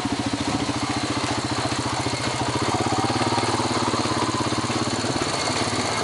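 Four-wheeler (ATV) engine running at low, steady throttle, its firing pulses even throughout.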